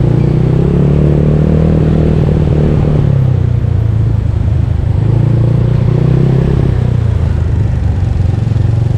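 Bored-up Yamaha Mio scooter's single-cylinder engine running under way, its note rising and falling a couple of times with the throttle.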